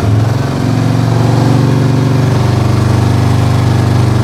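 Harley-Davidson Sport Glide's Milwaukee-Eight 107 V-twin running through its stock exhaust, held steady at about 2000 RPM, loud with an even pulsing beat.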